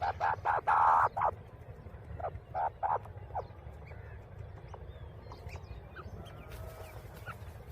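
Grey francolin giving a run of harsh, repeated calls in the first second or so and a shorter run around two to three seconds in, followed by faint chirps.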